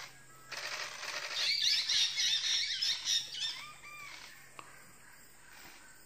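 Bird calls: a burst of rapid, high chirps and whistles from about half a second in, fading out around three and a half seconds in.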